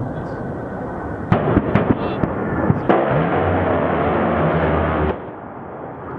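A-10 Warthog attack run: sharp blasts and cracks about a second in, then about two seconds of dense, continuous rumble with a low hum under it, typical of the GAU-8 30 mm rotary cannon firing a burst, which cuts off abruptly.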